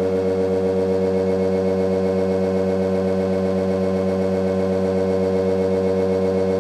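ReGen-X motor prototype running at a steady speed, making an even electric motor hum and whine with a slight regular flutter.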